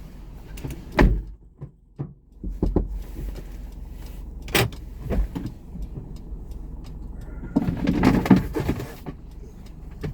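Car door clicks and knocks as a passenger opens the door and climbs out, over a steady low engine hum. A louder rustling, thudding stretch comes near the end.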